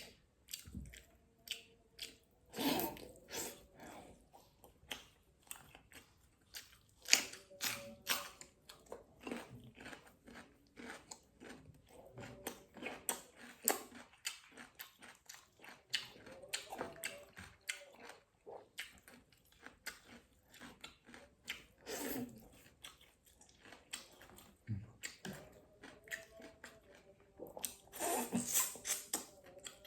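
Close-up mouth sounds of a person chewing and biting fish with green-chili seasoning: irregular wet clicks and smacks, with a few louder bouts of chewing.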